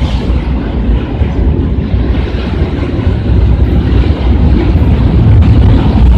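A long train passing close by: a heavy, steady low rumble with wind buffeting the microphone, growing slightly louder toward the end.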